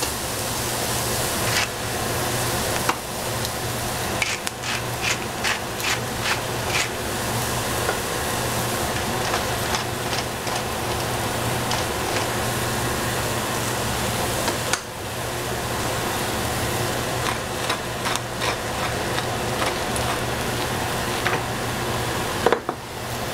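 Eggplant and capsicum sizzling as they fry in a pan, with many short clicks and scrapes of a utensil against the pan as the food is stirred, over a steady low hum.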